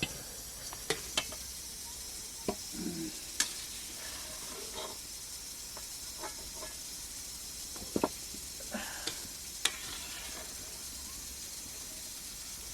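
Food sizzling as it fries in a pan: a steady hiss broken by a few sharp clicks and crackles.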